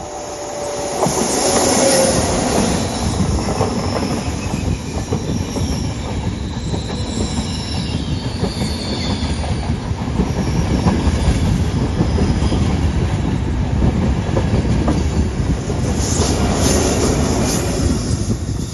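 A train running loudly past on the station tracks, its wheels rattling over the rails, with high-pitched wheel squeal in the first half. The sound builds up over the first second or two and ends abruptly.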